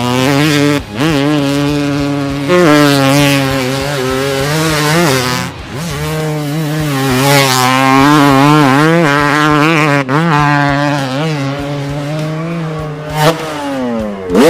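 Dirt-bike engine sound revving up and down in pitch over and over, with brief breaks about a second in and near the middle.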